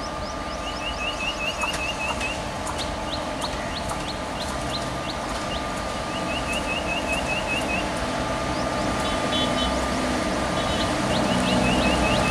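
WAG-5 electric locomotive and its passenger train approaching, the running noise with a steady whine in it growing louder. Over it a bird sings phrases of quick repeated chirps, three times, with other high calls in between.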